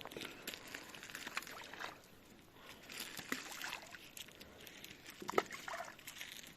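Faint sloshing and small splashes of water as handfuls of makukha, pressed sunflower oilcake groundbait, are thrown in, with scattered small clicks and one sharper, louder sound about five seconds in.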